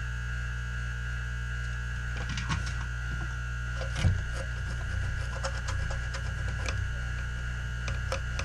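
Steady electrical hum from bench equipment, with light scattered clicks and taps from about two seconds in and one louder knock about four seconds in, as a circuit board and tools are handled on a workbench.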